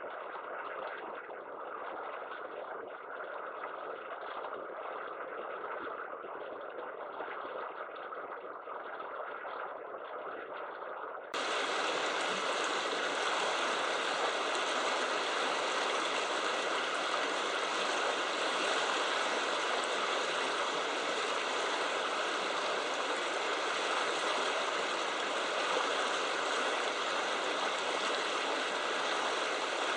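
Steady rushing of river water, with no bird calls standing out. About eleven seconds in it suddenly becomes louder and brighter.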